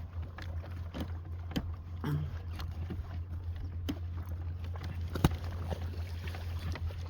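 Irregular splashing and sloshing in shallow water, with scattered light knocks and clicks over a steady low hum.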